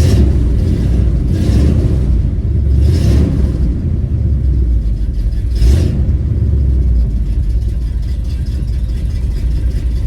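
Dentside Ford pickup's engine running right after being started on a newly replaced fuel pump, with a few short throttle blips over a steady idle. It runs smoothly, a sign the fuel pump fault is fixed.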